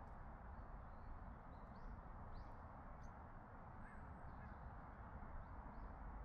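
Quiet forest ambience: a steady low hiss and rumble, with a few faint, short bird calls scattered through it.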